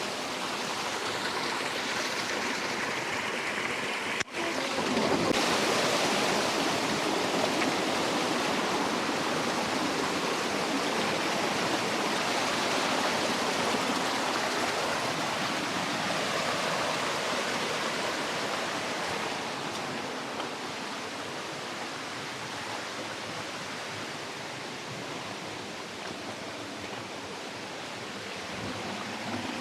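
Rushing water of a stream, a steady rush. It breaks off abruptly about four seconds in and resumes louder.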